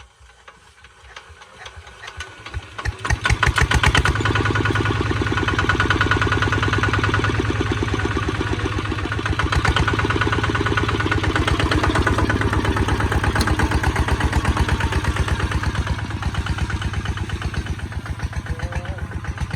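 Kubota ZT155 single-cylinder diesel engine starting up. Its strokes quicken and grow louder over the first few seconds, then it runs steadily at speed.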